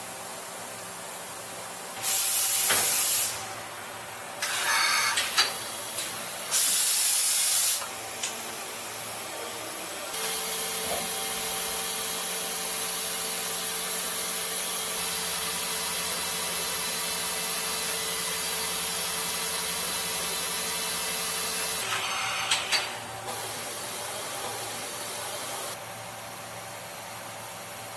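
CNC turn-mill machining centre at work: three loud bursts of hissing spray in the first eight seconds, then a steady machine hum with several fixed tones for about twelve seconds. A few sharp clicks follow, and the machine drops to a quieter steady running noise near the end.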